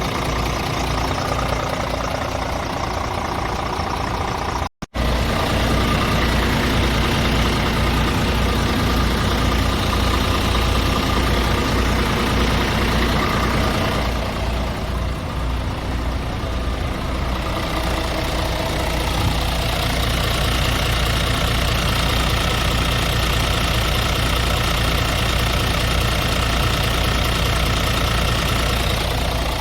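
Scania R500's 13-litre six-cylinder diesel idling steadily, with the sound cutting out for a moment about five seconds in.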